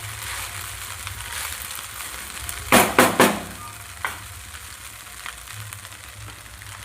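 Rice frying in ghee in a kadai, sizzling steadily as it is stirred. About three seconds in come a few loud scraping clatters, then one more about a second later.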